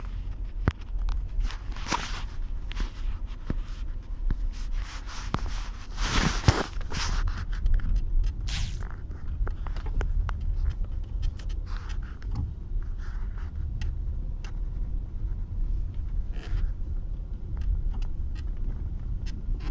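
Driver's seat of a 2020 Subaru Forester creaking in short, irregular scrapes and clicks as the car rocks lightly, over a steady low rumble of road and engine noise heard inside the cabin.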